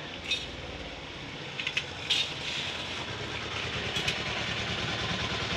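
A motor vehicle's engine running, a steady low pulsing rumble that grows gradually louder, with a few short metallic clicks over it.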